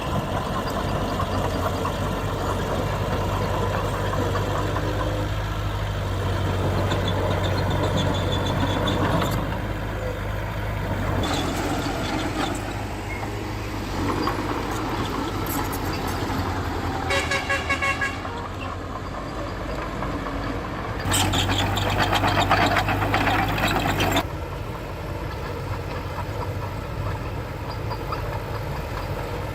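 Diesel engines of heavy earthmoving machines running steadily, with a short horn toot a little past the middle and a few seconds of louder engine working near the end.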